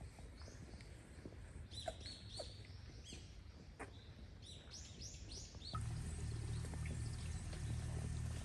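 Small birds chirping, a string of short arched calls in quick succession, over outdoor background noise. A steady low rumble starts about two thirds of the way in.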